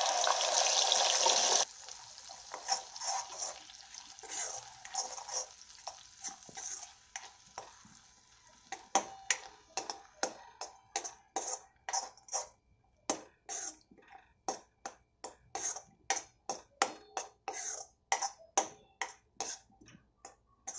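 Wet ground masala paste hitting hot oil in a kadhai: a loud sizzle that drops off sharply after about a second and a half, then a faint sizzle. From about halfway, a steel ladle scrapes the pan in short strokes, about two a second, as the paste is stirred and spread.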